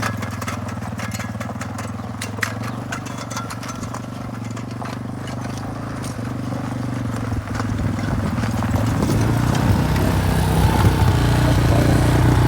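Yamaha engine running steadily, with a scatter of light clicks and clatters over it in the first half. The engine grows louder through the second half, as if the machine is coming closer or is working harder.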